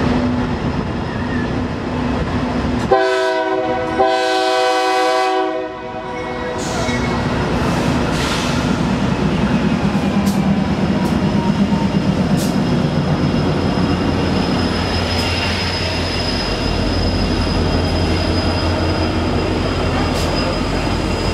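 Freight cars rolling past with a steady rumble and wheel clicks. About three seconds in, a diesel locomotive's air horn blows once for about three seconds. Near the end a deeper steady rumble builds.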